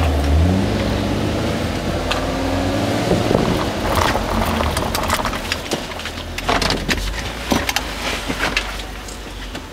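Nissan Altima SE-R's 3.5-litre V6 heard from inside the cabin, pulling briefly under light throttle and then easing off as the car slows to a stop. Scattered light clicks and knocks come in the second half.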